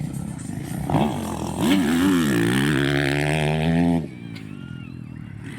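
Dirt bike engine revving hard: the pitch rises and falls with the throttle, then holds and climbs before cutting off sharply about four seconds in.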